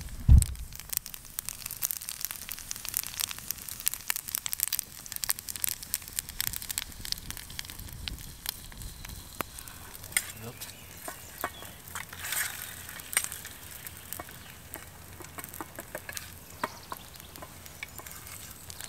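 Sliced Maultaschen frying in oil in a pan over campfire coals: steady sizzling with scattered pops and crackles. One low thump just after the start.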